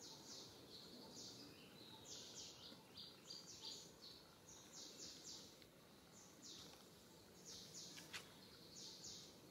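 Faint, high bird chirps repeating in quick pairs and threes over low steady background noise, with a single sharp click about eight seconds in.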